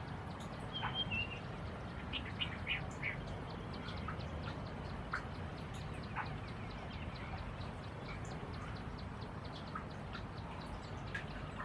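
White-rumped munias giving short, high chirping calls, most often in the first few seconds, with faint small ticks throughout over a steady low background hum.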